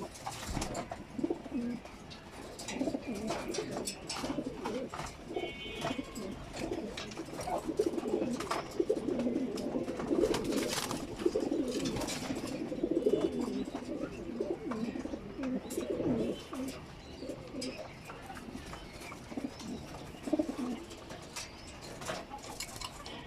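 Several racing pigeons cooing, overlapping and continuous, with scattered sharp clicks and taps among them.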